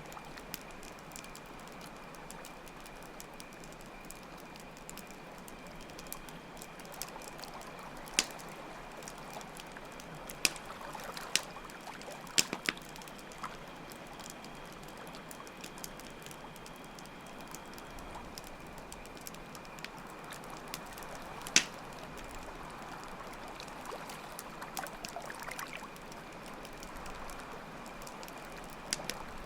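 Night ambience of a campfire with flowing water and chirping crickets: a steady rush of water and a continuous high cricket trill, broken by a few sharp crackles and pops from the fire, the loudest about two-thirds of the way through.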